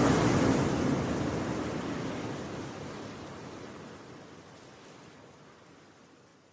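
Rushing sea surf, fading out steadily to silence.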